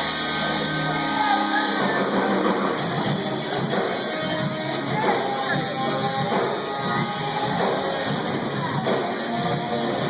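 A live rock band playing, with electric guitar prominent and a melody line gliding over it.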